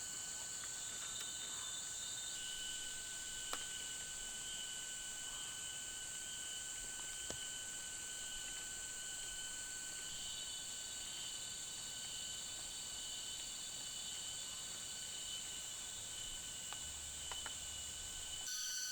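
Rainforest insect chorus: a steady, many-voiced high whine and trill from crickets or cicadas, with a couple of faint ticks. Just before the end the chorus changes abruptly to a different set of tones.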